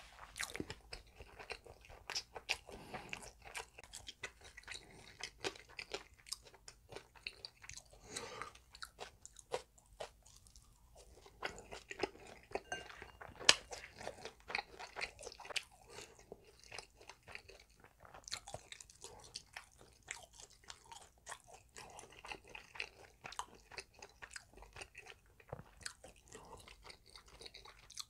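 Close-miked chewing of a mouthful of crunchy food, wet mouth sounds with many small crisp crunches and crackles, and one sharp click about halfway through.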